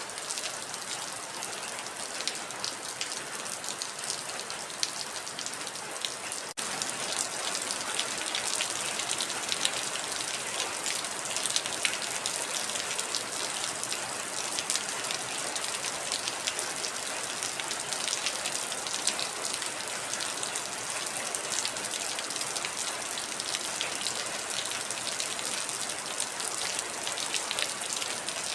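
Steady heavy rain: a continuous hiss made up of countless small drop impacts. It cuts out for an instant about six seconds in and comes back slightly louder.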